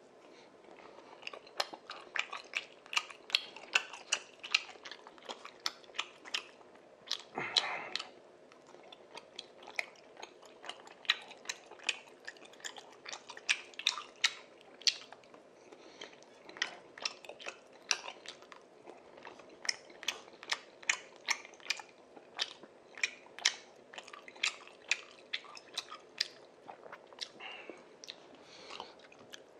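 Close-up chewing and mouth sounds of a man eating spicy tteokbokki rice cakes: quick, irregular wet clicks and smacks with short pauses between bites.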